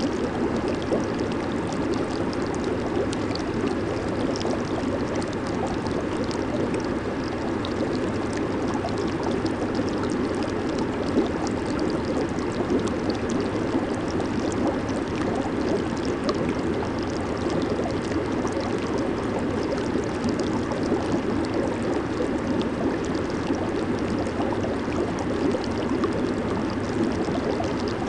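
Hot tub water churning and bubbling steadily from its jets, a constant rushing, gurgling water noise with fine crackle of bursting bubbles on top.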